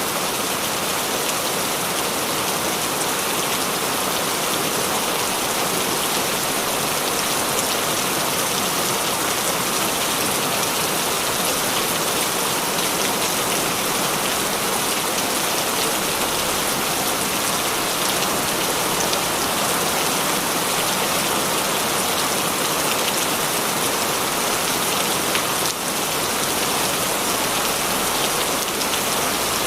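Heavy rain falling steadily, a dense even hiss of many drops hitting surfaces, with no change in strength.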